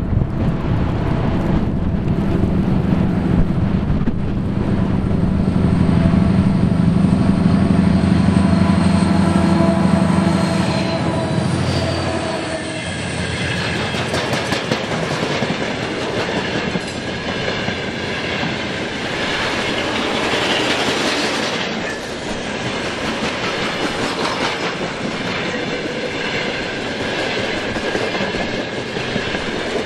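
2TE10U twin-section diesel locomotive passing close by, its diesel engines giving a loud low rumble for the first twelve seconds or so, which then falls away. The train's cars follow, rolling past with clickety-clack from the wheels on the rail joints.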